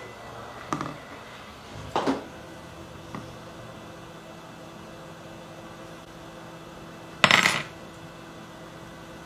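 Small metal tools and parts clinking and being set down on a workbench: four short clatters, the loudest about seven seconds in, over a faint steady hum.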